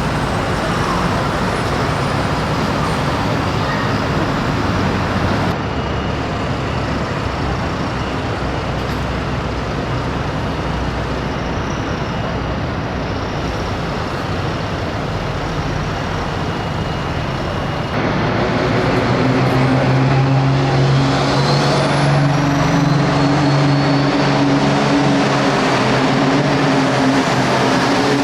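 Hot farm class pulling tractors' turbocharged diesel engines running hard under load, a dense loud roar. The sound changes abruptly twice. In the last third a steady engine note comes through with a high whistle rising in pitch.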